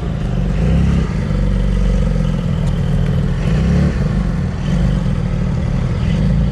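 Car engines running, a heavy low rumble that swells now and then.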